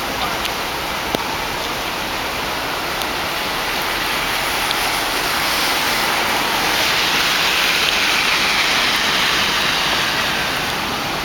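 Heavy rain falling, a steady hiss that swells through the middle and eases again near the end.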